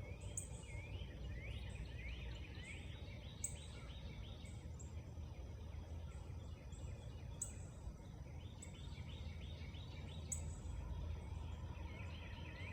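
Outdoor ambience: a steady low wind rumble with runs of faint, short rising chirps from small birds throughout.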